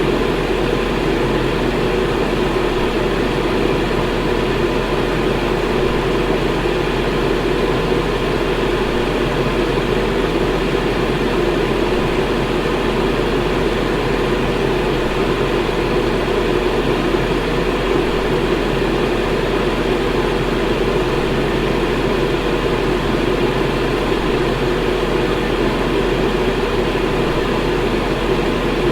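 Electric fan running steadily: an even rush of moving air, fullest in its low-middle range, with a faint low motor hum beneath.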